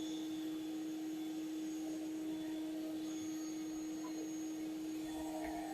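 Bee vacuum motor running with a steady, even hum.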